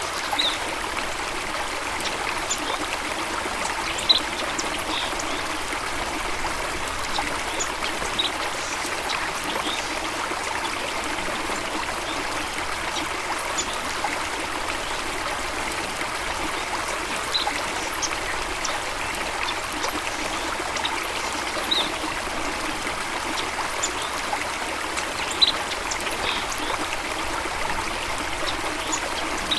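Flowing water, a steady rushing and trickling, with short high sounds scattered through it.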